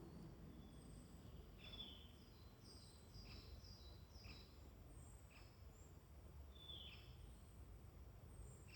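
Faint woodland birdsong: scattered short high chirps and falling whistled notes over a low, steady background rumble.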